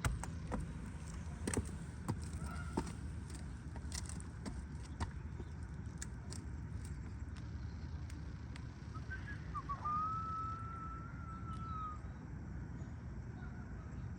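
Outdoor ambience with a steady low rumble and a string of sharp clicks and taps in the first few seconds. Around ten seconds in comes a single thin whistle-like tone, rising slightly and then holding for about two seconds.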